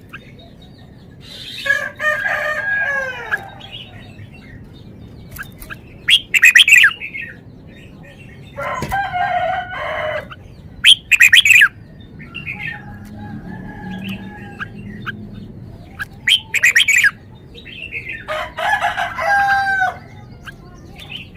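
Red-whiskered bulbul singing short, loud phrases of gliding whistled notes, about seven phrases with pauses between them.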